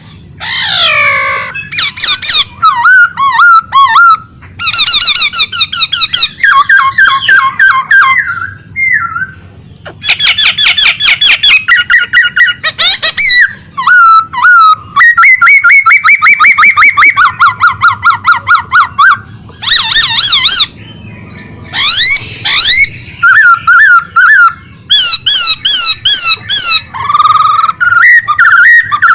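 A songbird singing loudly and continuously: long phrases of rapid, repeated trilled notes and whistles, broken by a few short pauses.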